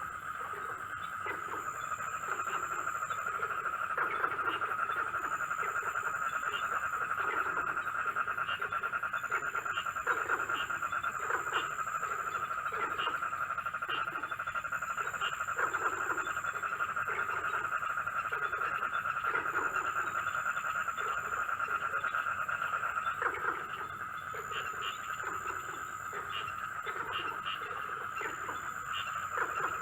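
Night chorus of frogs and insects: a steady high trilling chorus, with frequent short low frog croaks over it and a very high insect buzz that comes and goes every few seconds.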